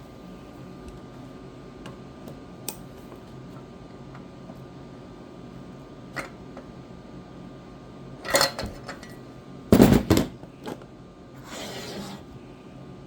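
Scattered metal clinks and knocks of hand tools and engine parts being handled during valve-cover removal. The loudest knocks come in a cluster about eight to ten seconds in, followed by a brief rustle.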